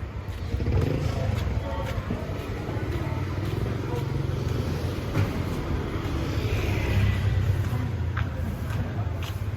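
Street traffic: motor vehicles passing with a steady low rumble that swells about a second in, with voices faintly in the background.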